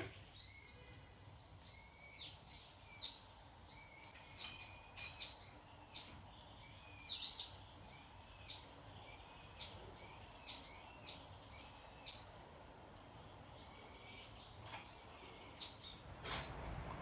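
A bird calling: a long series of short, high, arching notes, about two a second, that pauses briefly and then starts again.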